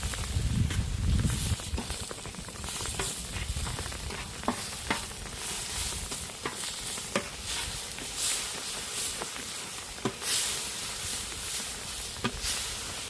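Fish frying in hot oil, sizzling steadily with frequent sharp crackles and pops. A low rumble is heard in the first second or so.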